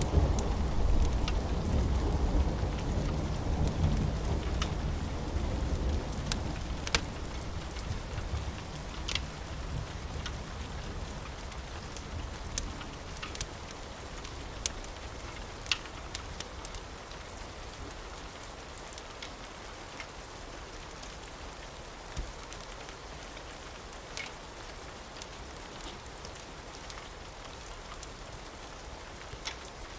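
Steady rain, with a low thunder rumble that fades away over the first several seconds. Scattered sharp ticks and pops come through the rain.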